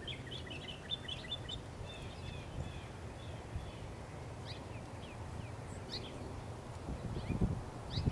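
Songbirds chirping over a steady low outdoor background, with a busy run of short chirps in the first few seconds and scattered calls after. A few low thumps near the end are the loudest sounds.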